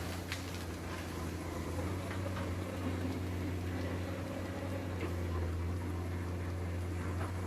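Komatsu PC200 excavator's diesel engine running with a steady low hum, with a few faint clicks and knocks.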